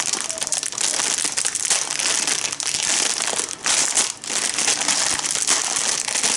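Plastic packet of sari-myeon (Korean ramen noodles) being crinkled and handled as it is opened. The rustling is loud and continuous, with two short pauses a little after the middle.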